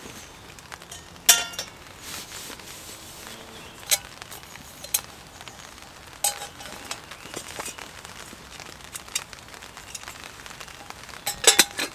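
Scattered sharp knocks and clinks of hard objects being handled, a few with a short ringing tone, with a quick cluster of them near the end.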